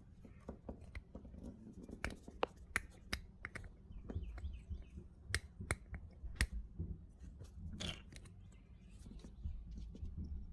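Faint, irregular clicks and light rustling of hands handling wiring and a plastic connector, as a crank position sensor wire is joined to a lead.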